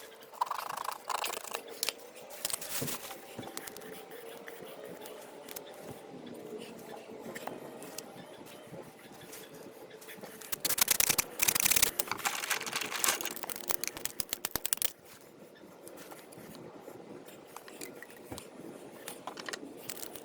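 Scraping and clicking of hand work on sprinkler pipe and fittings, with a loud stretch of rapid scraping and clicking about halfway through, followed by a run of quick ticks.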